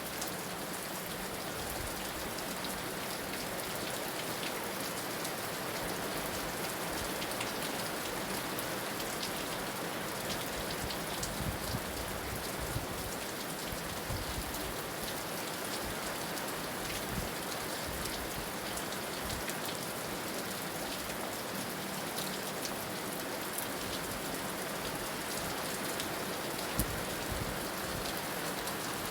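Steady heavy rain falling and pattering on a surface, with scattered sharper drop ticks.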